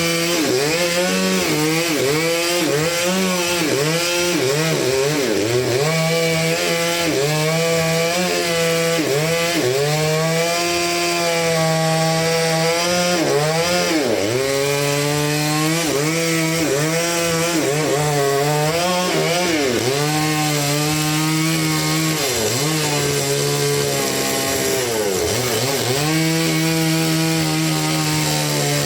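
Engine-driven saw cutting through a large rain tree (trembesi) log, running loud and steady with its engine pitch sagging under load and picking up again over and over as it works through the wood.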